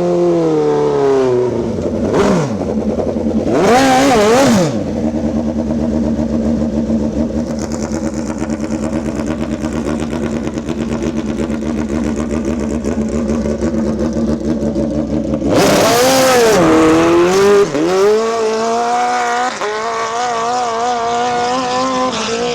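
Motorcycle engine slowing at first, then blipped twice in quick up-and-down revs, settling into a long steady idle. About sixteen seconds in it is revved again, then runs at an uneven, wavering idle.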